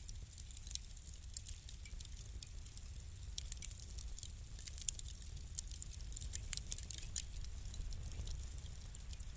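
Wood fire crackling: irregular sharp pops and snaps from burning logs over a low steady rumble of the flames.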